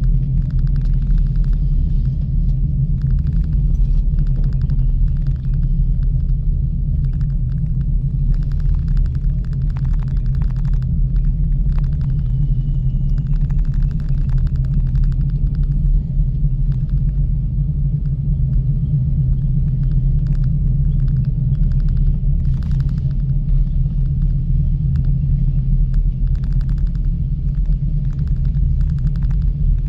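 Ropeway gondola riding its cable: a steady low rumble and hum, with short bursts of higher-pitched buzzing coming and going.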